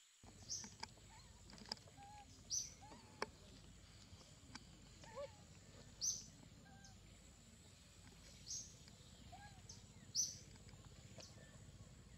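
A bird repeating a short, high, falling chirp every two to three seconds, with a few fainter, lower chirps and small clicks between.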